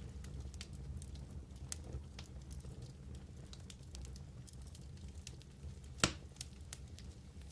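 Wood fire burning in a fireplace: a low steady rumble with scattered small crackles, and one loud sharp pop about six seconds in.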